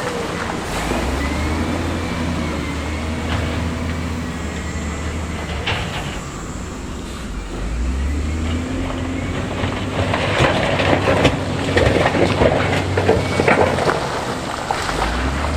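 Heavy construction machine's diesel engine running, its revs rising and falling, with a dense clatter and crunch of rock from about ten to fourteen seconds in as stone is pushed and tumbled.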